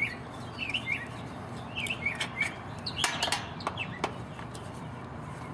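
A small bird chirping in short, quick calls, with a few sharp metal clicks from a nut driver working a wire terminal on an air-conditioner contactor.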